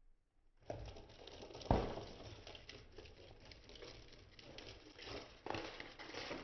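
Scuffling and pattering of kittens playing, with a loud thump a little under two seconds in and another near the end.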